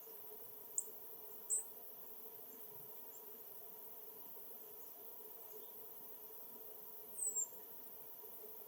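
Small bird giving two short, very high chirps, then a quick falling call of three notes near the end, over a faint steady hum.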